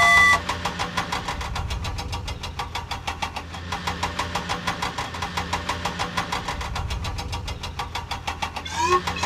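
Cartoon vehicle engine sound effect: an engine running steadily with a low hum and rapid, even knocking. It opens with a brief bright chime, and a series of rising whistle glides starts near the end.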